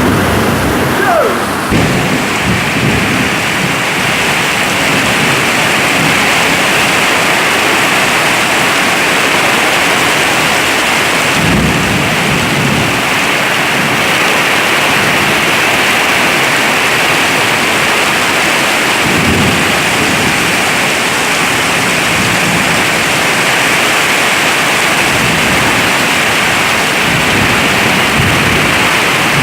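Heavy tropical downpour with a dense, steady hiss of rain. Low rumbles of thunder swell up about a second in, again around twelve seconds in, and near twenty seconds.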